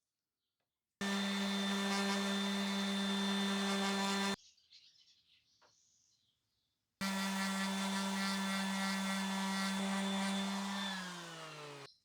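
Electric power tool motor running at a steady high speed in two stretches, each starting and stopping abruptly. Near the end the motor is switched off and winds down, its hum falling in pitch.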